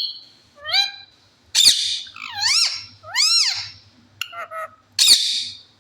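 Pet parrot calling: a series of about six squawks and whistle-like calls that arch up and down in pitch, with harsher squawks about a second and a half in and near the end.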